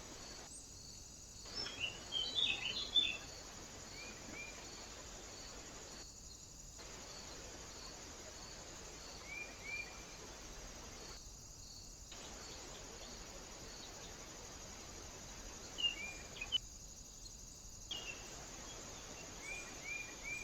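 Small birds calling at a feeder: a quick flurry of high chirps about two seconds in, then single short chirps every few seconds. Under them runs the steady hiss of a trail camera's microphone with a faint, even ticking about twice a second, and the sound cuts out briefly four times where the clips join.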